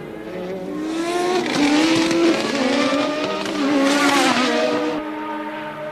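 Formula One race cars running at speed, their engine notes rising and falling as they pass, loudest twice, about two and four seconds in.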